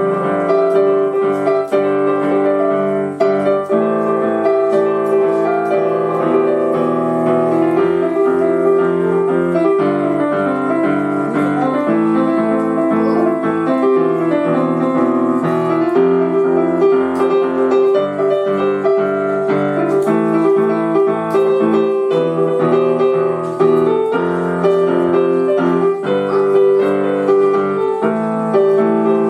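Piano being played, a continuous flowing piece of melody over chords.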